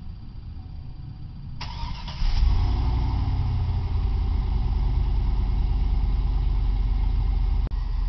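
A 2003 Chevy Tahoe's 5.3-litre V8 on its stock exhaust cranks and starts about two seconds in, then settles into a steady idle.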